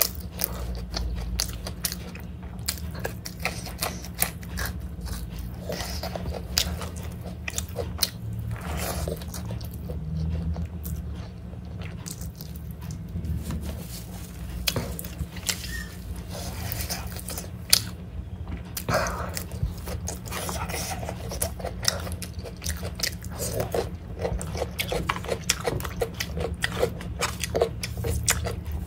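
Close-up chewing and wet mouth sounds of someone eating rice and meat by hand: many short smacks and clicks, with a steady low hum underneath.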